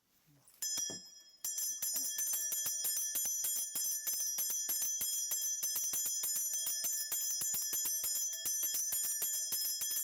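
Shaman's ritual bell cluster (mugu bangul) shaken rapidly: a short shake, then continuous fast jingling from about a second and a half in, steady throughout.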